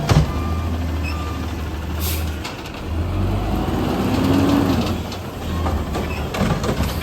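Garbage truck's engine running, with a rising whine about four seconds in and a few short hisses.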